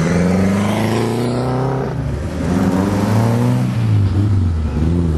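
Competition car engine running at low revs close by, its pitch rising and falling with light throttle blips.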